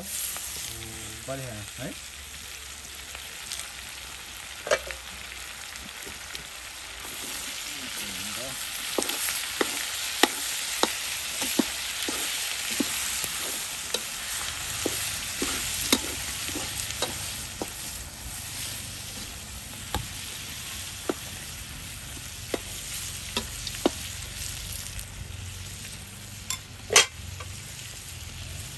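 Food sizzling as it fries in a pan while it is stirred, the stirring utensil knocking and scraping against the pan again and again. The sizzle grows louder from about seven seconds in, and a single sharp knock near the end is the loudest sound.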